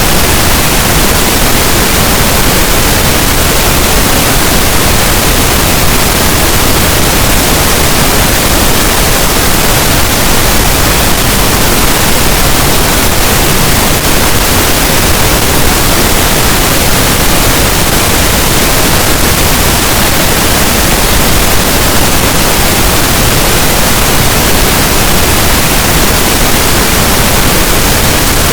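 Steady pink noise: an even, unchanging hiss spread across all pitches, played loud and constant as a sleep sound.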